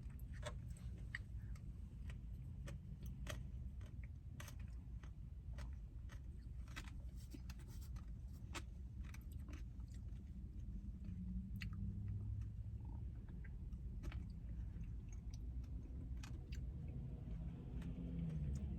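Close-up chewing and mouth sounds of a person eating: irregular wet clicks and smacks over a steady low hum.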